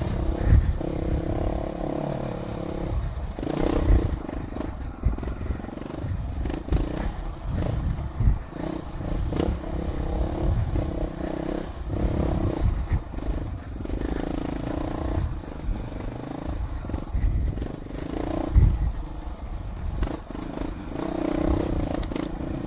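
Dual-sport motorcycle engine running on a rough trail, its note swelling and easing off every few seconds as the throttle is worked. Irregular low thumps from the bike on the bumpy ground run through it.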